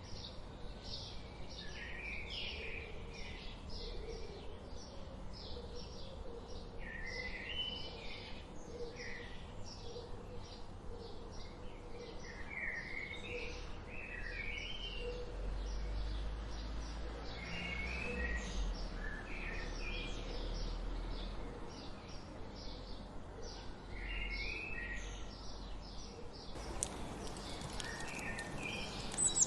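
Several small songbirds chirping and singing: a dense stream of short, high chirps several times a second, with warbled song phrases breaking in now and then.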